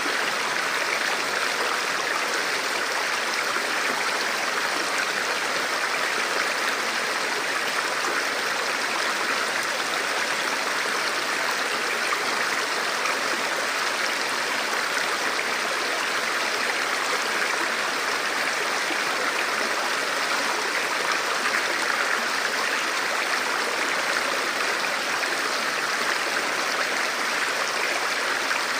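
Forest river flowing over rocks: a steady, even rush of water with no breaks.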